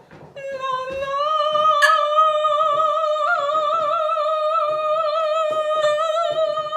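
A single long, high sung note, held steady with a slight waver, starting about half a second in, with a few faint knocks underneath.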